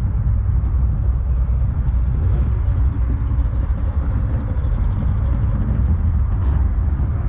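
Car engine idling steadily, a deep low running sound with no change in revs.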